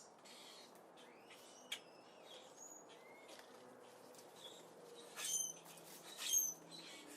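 Small birds chirping with short, high calls and quick swept notes, with a sharp click early on and two louder bursts of chirping about two-thirds of the way through.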